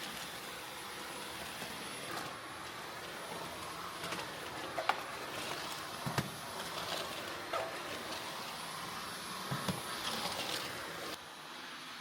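Vacuum cleaner running with a steady hiss, with a few knocks and bumps as it is pushed around. The level drops noticeably about eleven seconds in.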